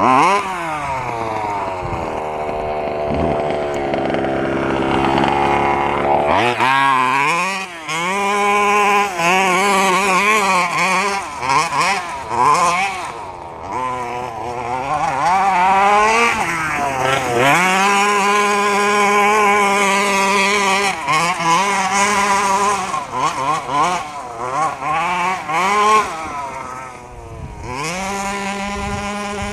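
Small petrol two-stroke engine of a gas-powered FG 1:6-scale RC stadium truck being driven hard, revving up and down over and over as the throttle is worked, with stretches where it holds a steady high-pitched note.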